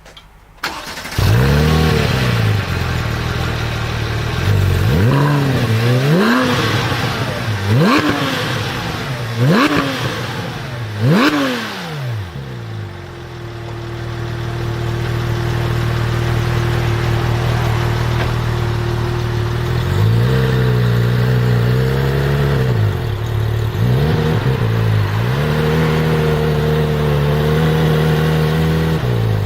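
Porsche 997 GT3 RS 4.0 flat-six with an Akrapovic exhaust starting up about a second in, then revved in five quick, sharp blips. It settles to a steady idle, then is revved again in a series of smaller blips near the end.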